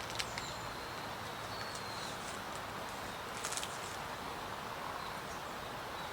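Steady hiss of light rain around the camp, with a few sharp light clicks, a short cluster of them midway, and a faint thin high whistle in the first couple of seconds.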